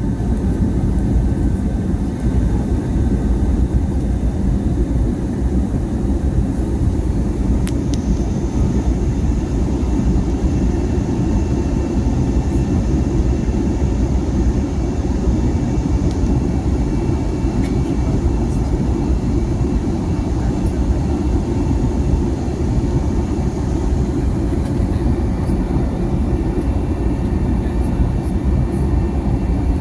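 Steady cabin noise of an Airbus A320neo airliner: an even, low roar of the jet engines and rushing air, with a few faint steady tones over it.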